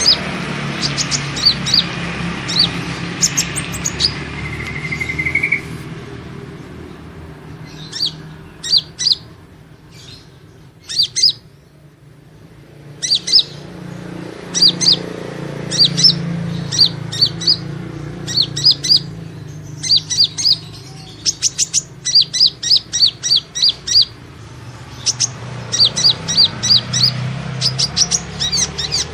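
Kolibri ninja sunbird lure call: runs of quick, sharp, high-pitched chirps with short pauses between them, over a steady low hum. This is the call played to draw wild kolibri ninja in for trapping.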